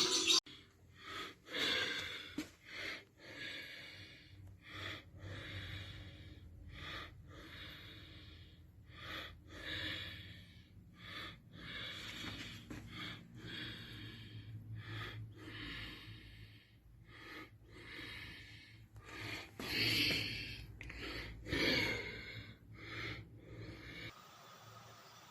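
Sand-and-cement mix being turned by hand with water added, a run of rhythmic wet scraping strokes about once or twice a second, a few louder ones near the end before the sound cuts off.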